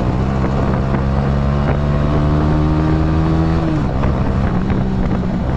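Motorcycle engine running at a steady speed under the rider, its pitch dropping about four seconds in as the throttle eases off.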